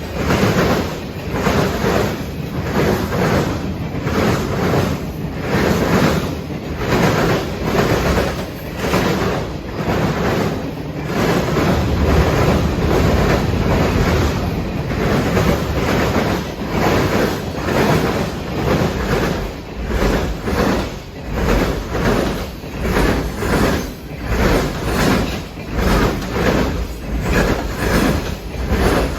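Freight train rolling past, its wheels clattering over the rail joints in a steady rhythm of roughly two beats a second.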